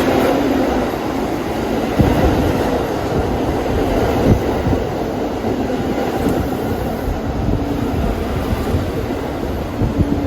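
New York City Subway train running past on the rails: a steady rumble of wheels and cars, with two sharp clunks about two and four seconds in.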